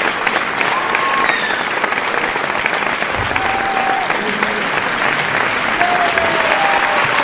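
Many people applauding: steady, dense clapping at an even level, with a few short voice calls rising above it here and there.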